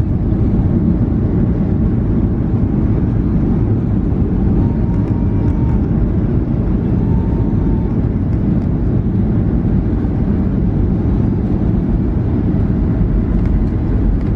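Cabin noise of a Boeing 737-800 heard from a seat near the wing: a steady, loud rumble of its CFM56 engines and the airframe, with faint brief tones in the middle.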